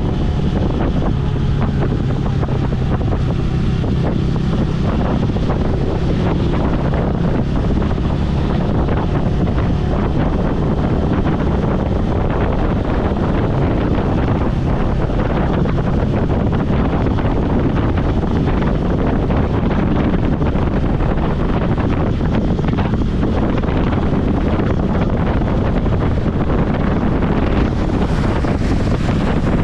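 Steady wind buffeting the microphone while riding a motorcycle at speed, with the bike's engine running steadily underneath.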